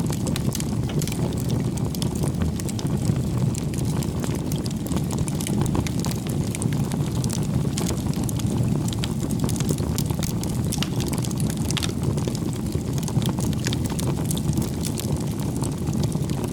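Wood bonfire burning: a steady low rush of flame with frequent sharp crackles and pops throughout.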